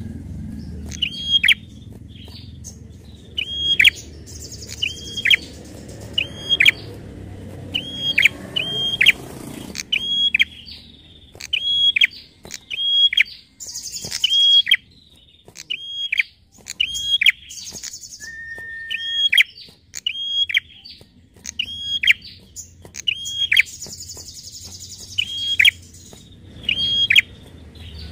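Prenjak (prinia) calling: a sharp, high note repeated about once a second, each one falling steeply in pitch, with now and then a short buzzy trill higher up.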